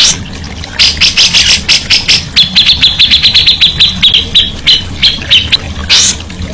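Songbird singing a fast string of sharp chirps, with a rapid run of short notes on one steady pitch through the middle.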